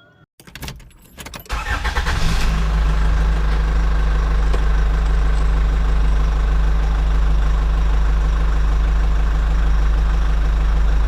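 An engine starting up and then running at a steady idle, with a deep, even rumble.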